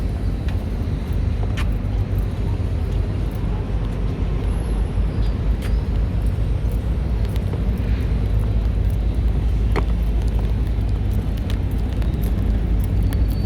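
Steady low rumble of outdoor city ambience, with a few faint clicks.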